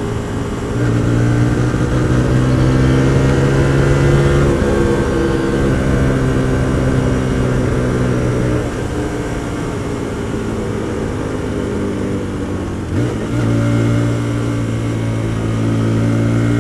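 Hyosung GT125R's 125cc V-twin engine running under way. Its note shifts a few times: it steps up about a second in, drops twice, and rises again near the end.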